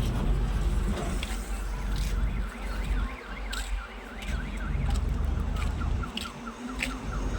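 An electronic alarm gives a fast repeating warble of rising-and-falling chirps. It starts about two seconds in, breaks off, and returns quicker near the end, over the low rumble of an idling vehicle engine.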